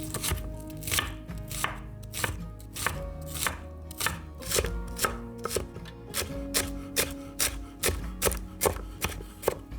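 A knife chopping food on a cutting board in a steady rhythm of about three strokes a second, with soft background music underneath.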